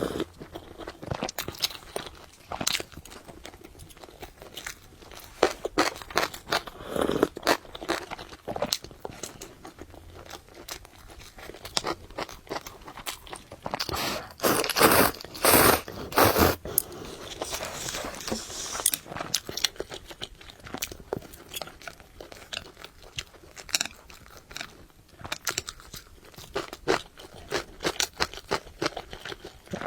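Close-up sounds of a person eating: chewing and crunching with many short wet clicks, and a louder, denser stretch about halfway through.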